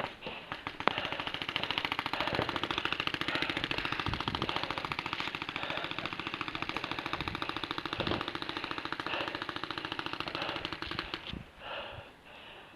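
Electronic paintball markers firing long, rapid streams of shots, an even run of quick pops that stops suddenly about eleven seconds in.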